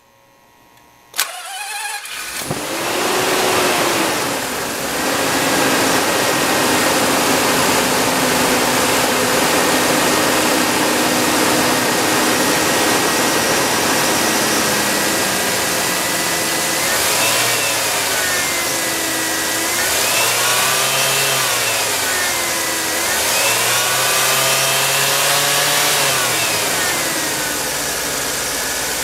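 Eunos Cosmo's 20B three-rotor turbocharged rotary engine being started: a sharp click and a brief crank, then it catches about two seconds in and settles into a steady idle. In the second half it is revved four times, the pitch rising and falling each time.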